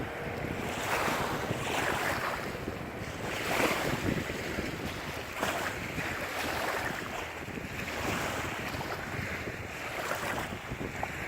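Wind buffeting the microphone over water splashing against a boat, with irregular louder splashes about once a second.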